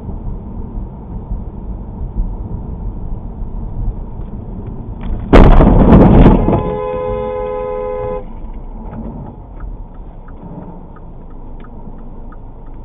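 Vehicle road noise, broken about five seconds in by a loud burst of noise lasting about a second. A car horn then sounds steadily for about a second and a half, followed by faint ticks.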